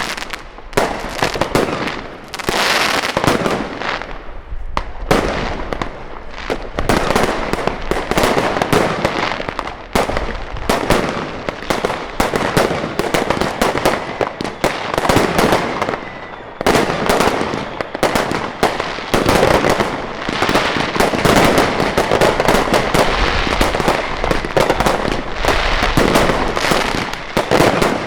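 New Year's Eve fireworks going off without a break: a dense, continuous run of bangs and crackling, many shots overlapping.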